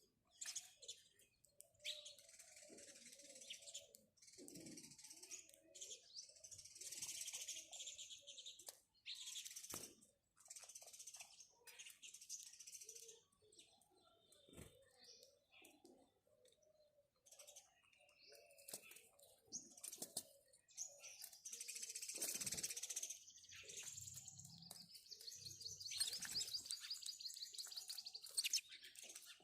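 House sparrows chirping, faint, in repeated overlapping bursts with brief gaps between them.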